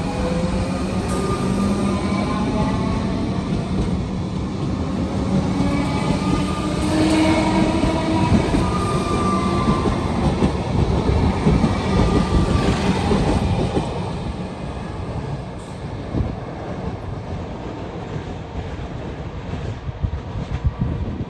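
Comeng electric suburban train passing at close range: a steady heavy rumble and clatter of wheels on rail, with a whining tone over it. It grows quieter after about two-thirds of the way through as the train moves off.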